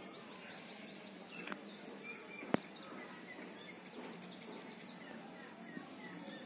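Faint, scattered short bird chirps over steady background noise, with a sharp click about two and a half seconds in.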